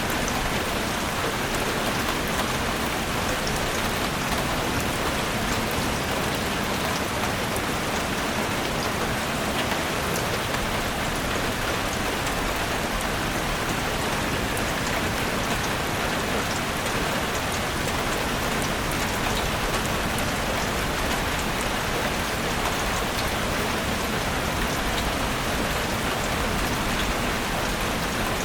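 Steady rain falling in a forest, an even hiss with fine scattered drop ticks.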